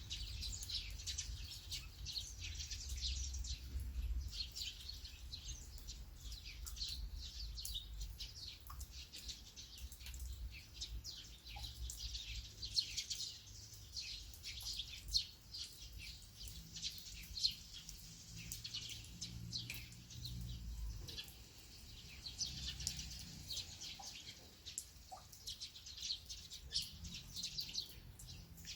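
Rain falling and dripping, a dense scatter of small sharp drops, with birds chirping among it and a low steady rumble underneath.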